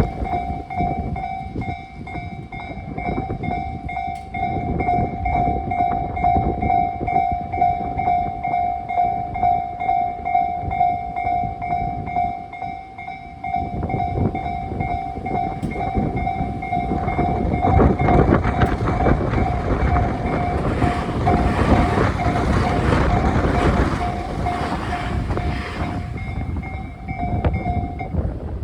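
A level-crossing warning bell rings with a steady pulsing tone while Tobu 80000 series electric trains pass over the crossing, their wheels rumbling and clattering on the rails. The train noise dips briefly about halfway through, then is loudest in the second half, and the bell stops just before the end.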